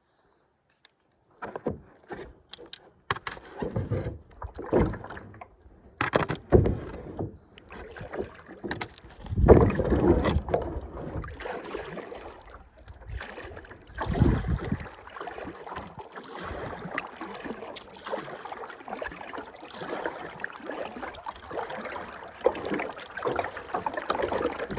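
Kayak paddling, heard from a phone strapped to the bow: paddle strokes splashing water, with irregular knocks and thumps against the hull. It begins after a second or so of silence.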